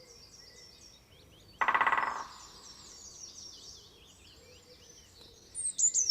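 Bird soundscape: small birds chirping and twittering high-pitched throughout, with a louder, lower call lasting about half a second near the start and a quick run of loud falling chirps near the end.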